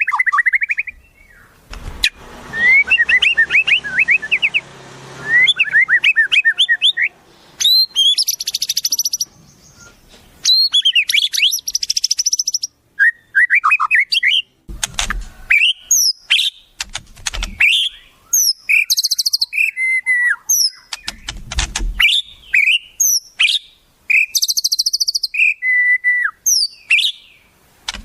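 Wild songbirds calling and singing in varied phrases: quick chirps, sliding whistles and fast buzzy trills one after another, with a few low thuds in between.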